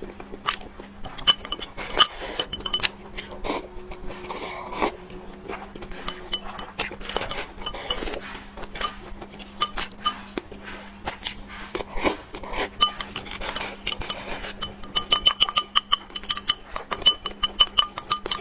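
Eating sounds: utensils repeatedly clinking and scraping against a bowl or plate, with chewing, in a quick rapid run of clinks near the end.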